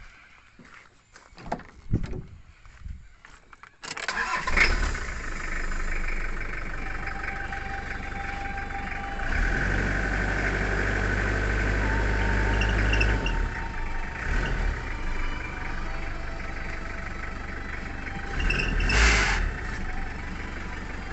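A Toyota engine being jump-started from a flat battery catches about four seconds in, after a few scattered knocks, and keeps running. It runs harder for a few seconds in the middle, then settles to a steady run, with a brief louder burst near the end.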